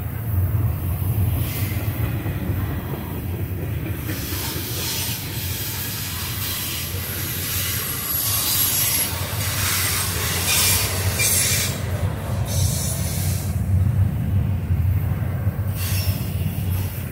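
Double-stack intermodal freight train's well cars rolling past: a steady low rumble of steel wheels on rail, with stretches of high-pitched wheel squeal and hiss in the middle and again briefly near the end.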